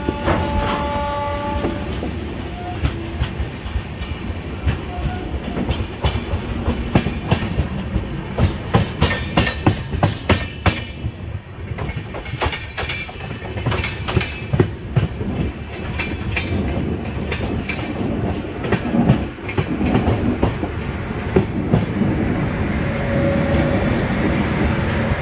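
Passenger express train running, heard from an open coach door: a steady rumble with a rapid clickety-clack of wheels over rail joints and points, thickest in the middle stretch. A horn-like tone sounds briefly near the start.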